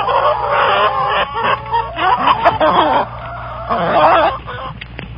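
A flock of chickens clucking and cackling, several birds calling over one another in wavering, overlapping calls that come in clusters about a second long.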